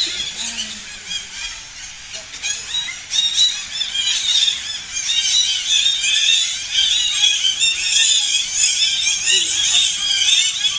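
A flock of parrots calling, many short high squawks and chirps overlapping, growing denser and louder about four seconds in.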